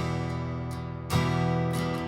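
Martin GPCPA4 acoustic guitar strummed, its chords ringing, with a fresh strum about a second in.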